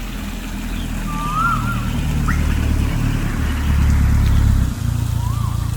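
A large insect's wings buzzing low and steady while it feeds at flowers, the hum shifting pitch a couple of times. A bird calls short whistled notes that rise and fall, three times.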